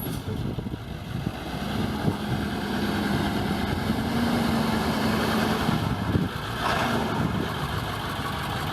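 A 1999 International 4700 water truck's T444E V8 turbo diesel idling with a steady low rumble. A short hiss comes about two-thirds of the way through.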